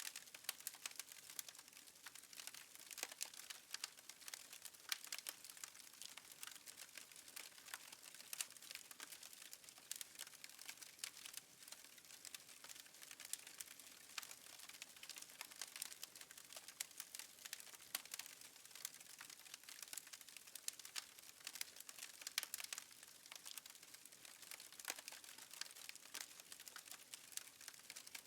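Fireplace fire crackling faintly, a steady stream of small pops and snaps over a soft hiss.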